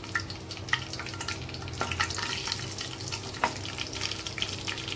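Cumin seeds sizzling and crackling in hot ghee in a wok, a steady frying hiss dotted with small sharp pops.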